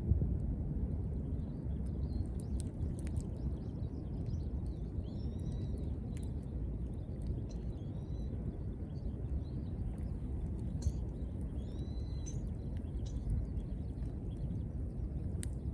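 Wood fire burning with a steady low rumble and scattered sharp crackles and pops. Small birds chirp in the background now and then.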